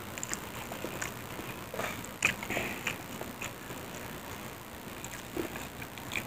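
A person eating rice and omelette by hand: soft chewing with a scatter of small wet mouth clicks and smacks, the sharpest about two seconds in.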